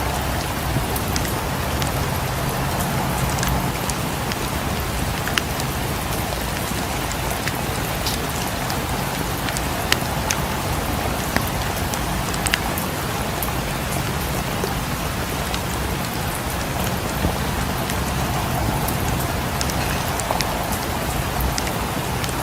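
Steady rain falling, mixed with a fireplace crackling: an even hiss with scattered sharp pops and ticks, a few louder ones about halfway through.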